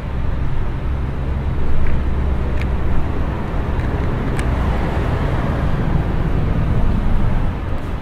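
Steady low rumble of city traffic and machinery, carried and resonated through a temporary walkway structure, with a few faint sharp clicks about two and a half and four and a half seconds in.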